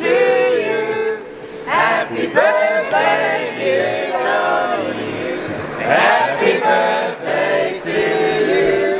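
A group of people singing a song together, with long held notes.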